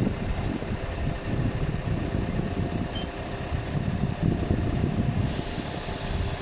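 A vehicle engine running steadily, with gusty wind buffeting the microphone and a short hiss about five seconds in.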